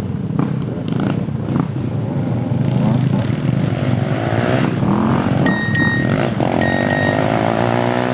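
Motocross motorcycle engines running and revving, their pitch rising and falling, with a strong rev-up near the end. Two short high-pitched beeps sound about halfway through.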